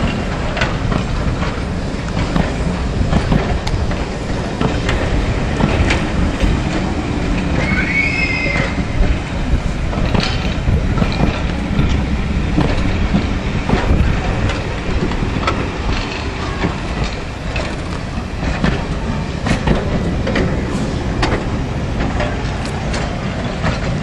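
Railway passenger coaches rolling slowly past at close range: a steady rumble of wheels on rail with repeated clicks as the wheels cross rail joints, and a brief wheel squeal about eight seconds in.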